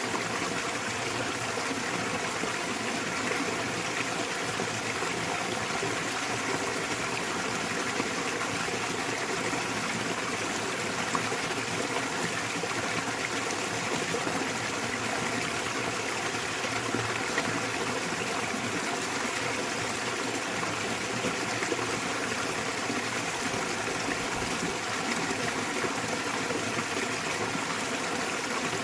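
Small waterfall in a mountain stream, water pouring and splashing in a steady, even rush with no pauses.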